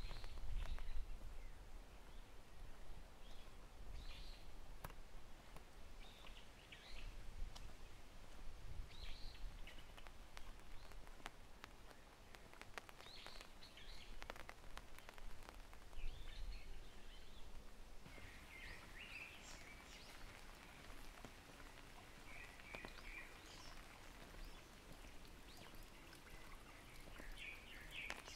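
Faint forest ambience in light rain: scattered drips and patter on leaves, with short bird chirps now and then, coming more often in the second half.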